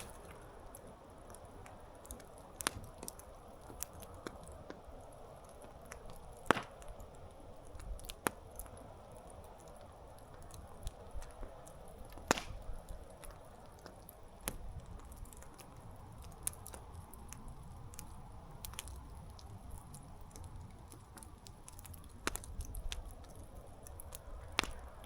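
Wood campfire crackling: irregular sharp pops and snaps over a soft, steady hiss of burning, with the loudest pops about six and twelve seconds in.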